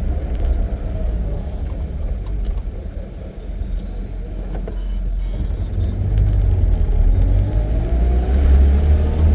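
Safari vehicle's engine running as it drives along a jungle track. It eases off briefly, then picks up again with a rising pitch near the end.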